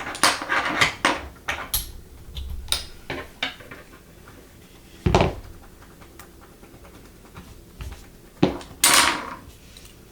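Small hard objects clicking and knocking as they are handled on a tabletop: a quick run of clicks at first, a heavier thump about five seconds in, then a knock and a short rustling scrape near the end.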